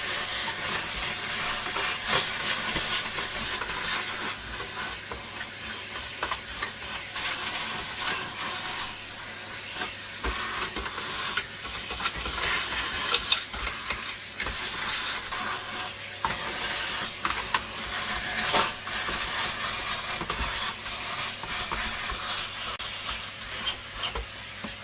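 The plastic base of a vacuum cleaner being cleaned: a steady hiss with irregular scrubbing, scraping and small knocks, and a steady low hum underneath.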